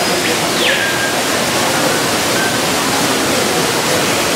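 Steady rushing of an indoor waterfall. About half a second in comes one short bird call, a whistle that drops to a brief held note.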